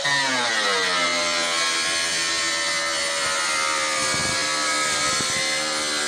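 A motor-driven tool running: its pitch falls over the first second, then holds steady with a rough rasp over it.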